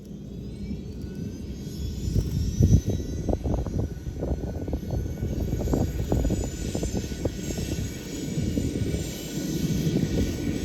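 Turboshaft engine of a BK117C-2 helicopter spooling up during engine start: a high whine rising steadily in pitch over a low rumble with irregular crackles.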